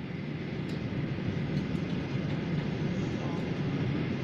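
Jet airliner cabin noise: a steady low rumble of the engines and airflow, growing louder over the first second and then holding.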